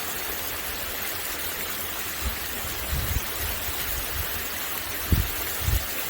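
Heavy rain pouring down steadily in a summer downpour, with a few short low thumps, the loudest about five seconds in.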